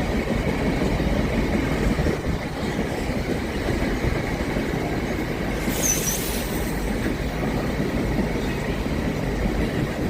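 Train running past on the line: a steady rumble of wheels on rails, with a brief high-pitched squeak about six seconds in.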